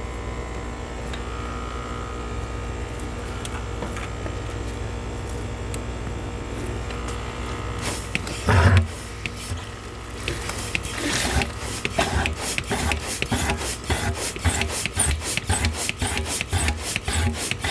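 Hand-operated suction pump being worked on an air conditioner's condensate drain line to clear a blockage: a loud jolt about halfway through, then quick, even pumping strokes, two to three a second, over a steady hum.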